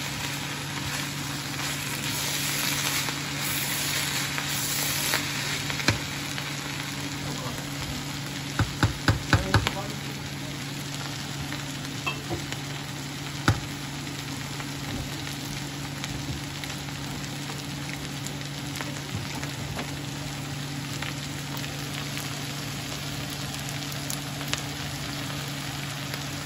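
Julienned bamboo shoots and onions sizzling in a hot nonstick pan, stirred and turned with a wooden spoon, over a steady low hum. A few sharp knocks stand out, five of them in quick succession about nine seconds in.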